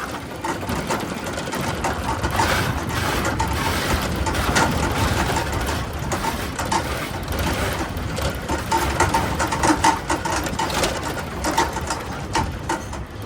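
A small engine running steadily, with rapid mechanical rattling and clicking over it.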